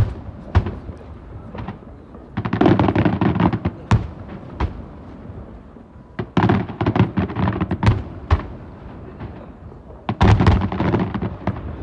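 Aerial fireworks going off in volleys of rapid crackling bangs, three volleys about four seconds apart, with a few single bangs in between.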